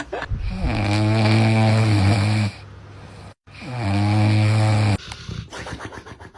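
Snoring: two long, drawn-out snores with a steady low pitch, each sliding down briefly at its start, the second beginning about three and a half seconds in.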